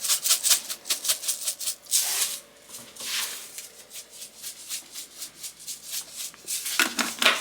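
Garlic salt being shaken from a shaker: a quick run of rattling shakes in the first couple of seconds, then fainter, sparser shakes.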